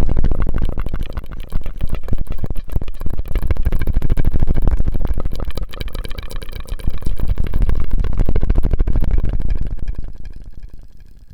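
Close-miked ASMR mouth sounds: a dense run of wet clicks and pops over a heavy low rumble, fading out near the end.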